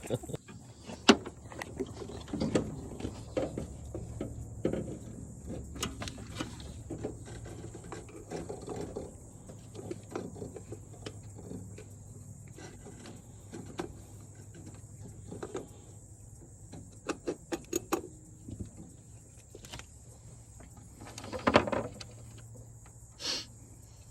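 Hand tools and metal fuel-pump parts clinking and clicking at irregular moments during work on a Land Rover 2¼ petrol engine, with a quick run of ratchet-like clicks about a quarter of a minute in and a louder knock near the end.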